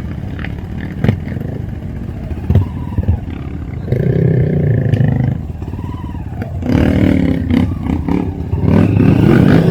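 Trail motorcycle engine running and revved in bursts: one about four seconds in, another around seven seconds, and a louder one rising near the end. A few sharp knocks come in the first three seconds.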